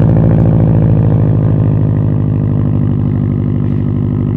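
Subaru flat-four engine running steadily through an aftermarket cat-back exhaust, its low, even note holding pitch.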